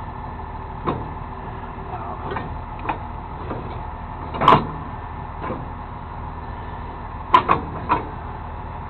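A tow truck's engine runs steadily while the boom is worked during a hookup, with a few sharp knocks from the rigging: one about a second in, a louder one past four seconds, and three close together near the end.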